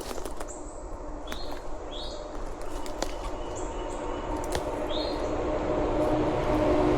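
A small bird giving short, sharp chip calls about once a second, over scattered clicks of footsteps on forest litter. A low steady hum grows louder near the end.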